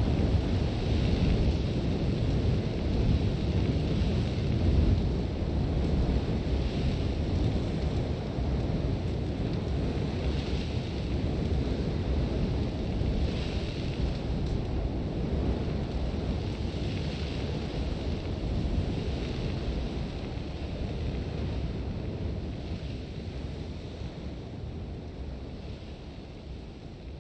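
Sandstorm wind: a heavy, steady low rumble with recurring hissing gusts of blown sand every few seconds, gradually fading out near the end.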